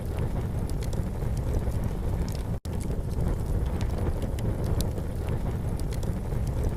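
Campfire crackling, with small sparse pops over a steady low rumble. A split-second dropout in the sound comes about two and a half seconds in.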